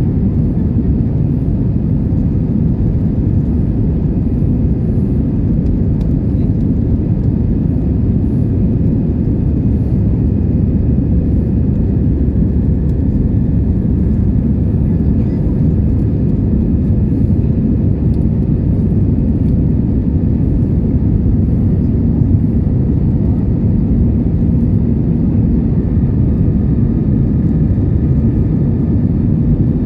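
Steady low cabin roar of an Airbus A320-200 in flight, its engines and the airflow over the fuselage heard from inside the cabin, with a few faint steady tones above the rumble.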